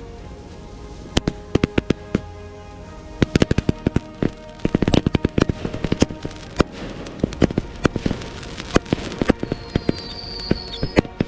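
Fireworks going off: rapid volleys of sharp bangs and crackles in clusters, with a thin high whistle near the end. Music plays underneath.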